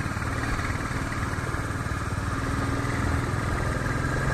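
Royal Enfield Bullet motorcycle's single-cylinder engine running steadily while the bike is under way, a quick even pulsing with no change in speed.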